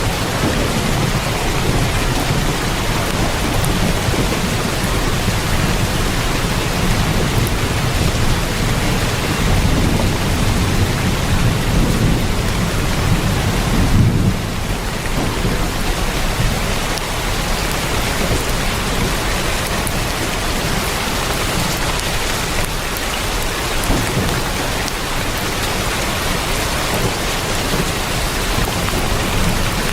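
Heavy rain drumming on a tin roof, a steady dense hiss. A low rolling rumble of thunder swells under it through the first half and fades about halfway through.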